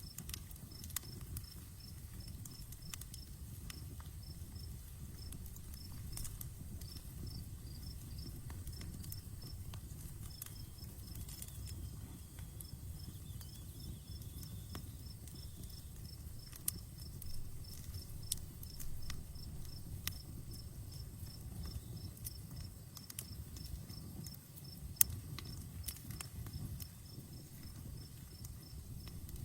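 Outdoor campfire burning with a low, steady rush and scattered crackles and pops, one sharp pop near the end standing out. Crickets chirp steadily in a regular rhythm of about three chirps a second.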